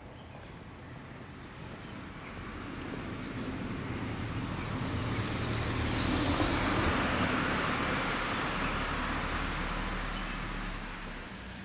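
A car passing by: its tyre and engine noise swells to a peak about halfway through, then fades away. A few short bird chirps sound over it.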